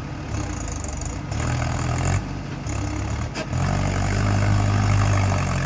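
Mahindra tractor's diesel engine running steadily, swelling louder about a second in, easing off, then running louder and steady again over the second half.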